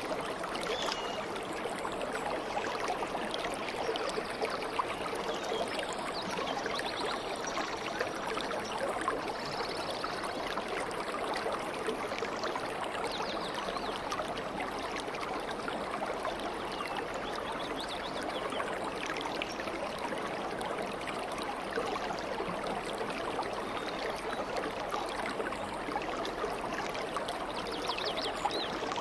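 Stream water flowing steadily over stones, with faint short bird chirps high above it now and then.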